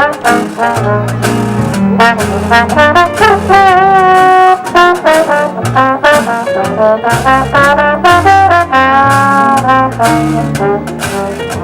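A brass band playing New Orleans jazz live, horn lines moving note to note over a low bass line. The horns hold long, wavering notes about four seconds in and again around nine seconds.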